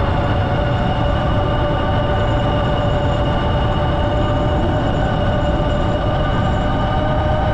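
Ariel Rider Grizzly e-bike's hub motor whining at a steady pitch under power, over a constant low rumble of the ride.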